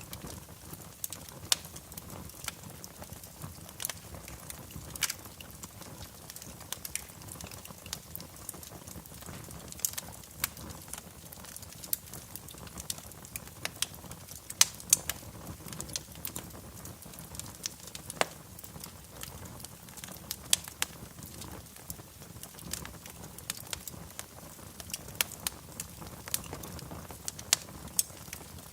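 Fire crackling in a fireplace: irregular sharp pops and snaps, a few of them louder, over a low steady hiss.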